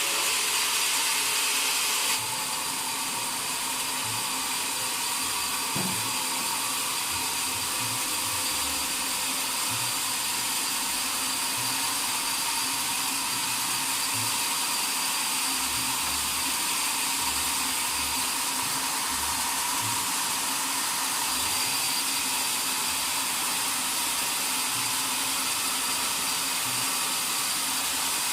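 Sawmill machinery running with a steady whine and hiss, dropping slightly in level about two seconds in.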